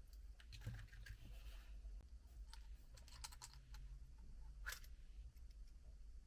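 Near silence, with a few faint clicks and taps of small objects being handled over a low steady hum.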